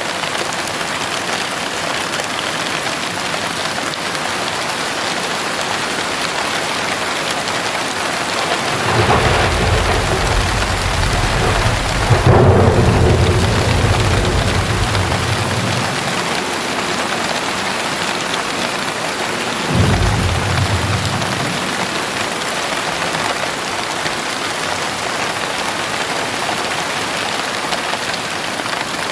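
Heavy rain falling steadily, with a long roll of thunder starting about nine seconds in that peaks loudest a few seconds later and dies away, then a second, shorter thunder rumble about twenty seconds in.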